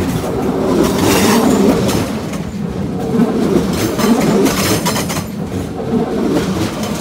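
A DB ICE 4 (class 412) electric multiple unit rolling past at low speed, its wheels giving a steady rumble with repeated clacks over rail joints.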